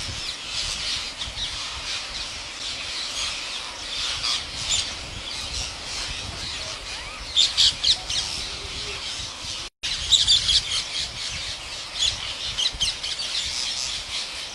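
A large flock of green parrots screeching and chattering all at once, with louder bursts of squawks about seven and ten seconds in.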